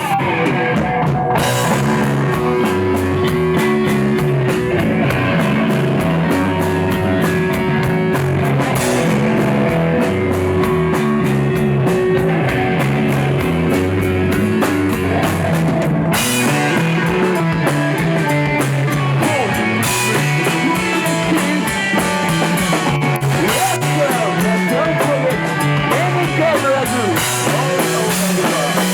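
Rock band playing live and loud: drum kit and electric guitars, with a bass line moving in steps.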